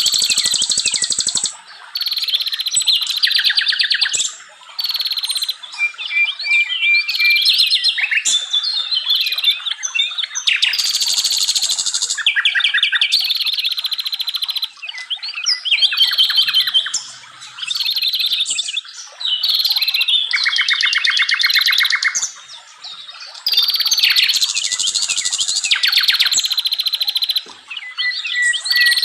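Forest songbirds singing in long, varied phrases of rapid trills and repeated chirping notes, each phrase lasting a few seconds with brief pauses between them.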